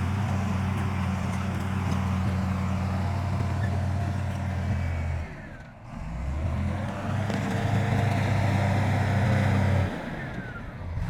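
Heavy diesel engine of earthmoving machinery running steadily under load. The engine sound drops away briefly about halfway through and again near the end, then resumes.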